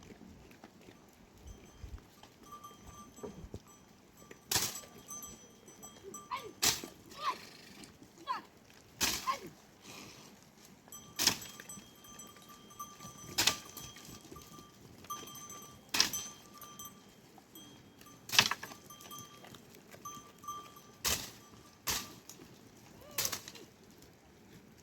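A livestock bell ringing on and off, with sharp knocks about every two seconds.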